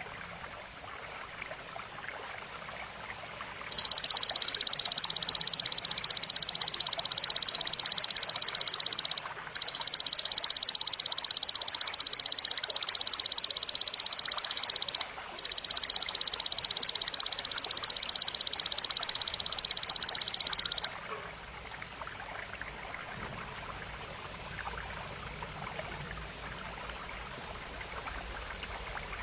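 Belalang (grasshopper) stridulating: a loud, continuous high-pitched buzzing trill that starts a few seconds in, breaks off twice very briefly and stops after about seventeen seconds. A faint steady hiss like running water lies underneath.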